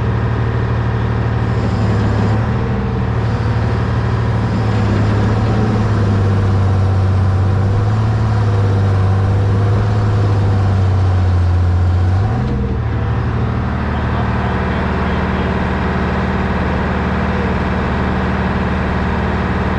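1978 Hein-Werner 25-ton excavator's diesel engine running steadily under load as the machine tracks. Its note shifts and eases slightly about twelve seconds in.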